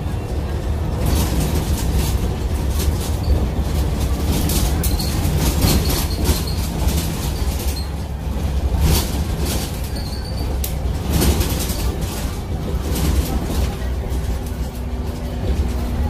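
Steady low vehicle rumble with frequent rattles and clicks throughout.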